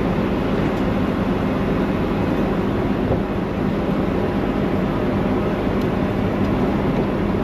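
Steady drone of an idling engine, a constant low hum with rumble beneath it.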